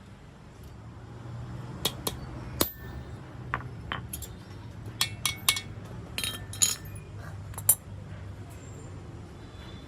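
A dozen or so sharp metallic clinks and taps of hand tools on steel clutch-plate parts, coming irregularly over a low steady hum.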